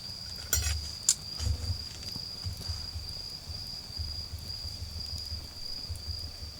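An autumn insect trilling steadily at a high pitch, with a low uneven rumble beneath it. A garden wood fire gives two sharp pops about half a second and a second in.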